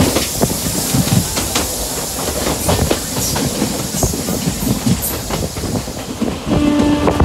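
Passenger coach of an Indian Railways express train running at speed, heard from the open door: the wheels knock and clatter irregularly over the rail joints over a steady rushing noise.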